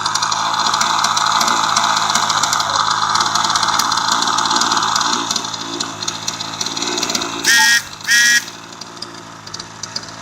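OS .46 MAX two-stroke glow model engine running fast, then dropping to a lower, quieter run about five seconds in. Two short, loud beeps near the end.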